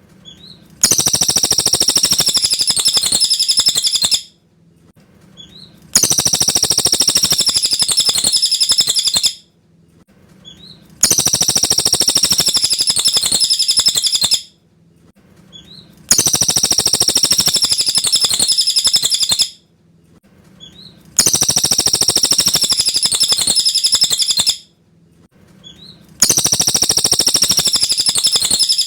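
Cililin bird song played as a repeating loop. The same high, rapid chirping phrase lasts about three and a half seconds, then a pause of about a second and a half, then the phrase again, six times over.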